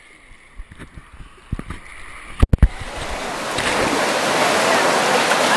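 A few low bumps and sharp knocks on the microphone about halfway through, then the steady rush of waterfall water swells up and stays loud.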